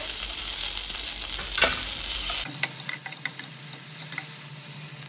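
Onions, chillies and fresh tomato pieces sizzling in hot oil in a non-stick kadai, with a steel ladle stirring and scraping the pan and a few sharp clicks.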